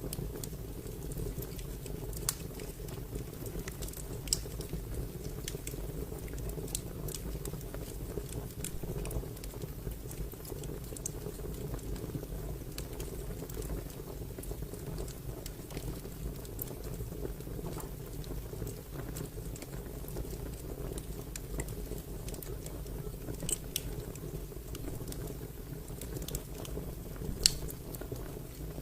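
Wood fire crackling: a steady low rumble with scattered sharp pops and snaps, the loudest pop near the end.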